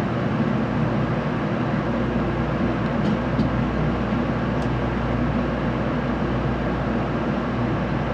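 Steady running noise inside a passenger car of an N700A Shinkansen: an even low rumble and hiss of the train rolling along the track as it pulls into a station.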